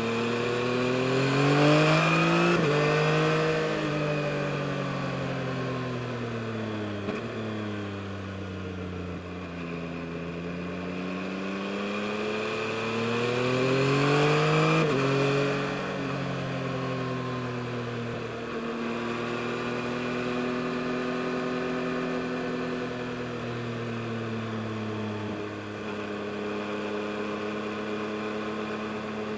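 Yamaha MT-09 SP's 890 cc three-cylinder engine under way: it revs up and drops back twice, with sudden dips in pitch at the gear changes. Through the second half it holds a steady, even note at cruising speed.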